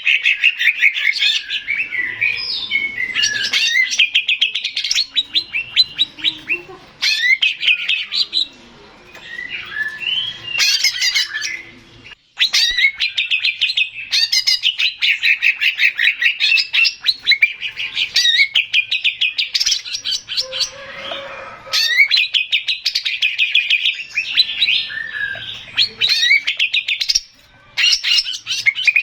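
Male green leafbird (cucak ijo) singing a fast, continuous stream of chirps and warbled phrases, broken by a few short pauses.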